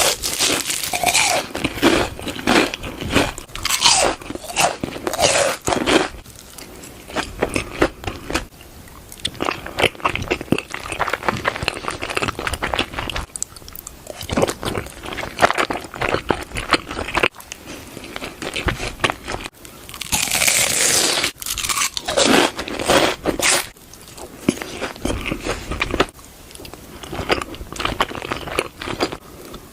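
A person chewing and biting crunchy food close to the microphone, in repeated bursts of crunching with short pauses between bites.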